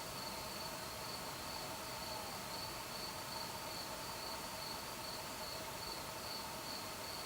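Crickets calling in a steady, continuous trill, with fainter steady lower tones underneath.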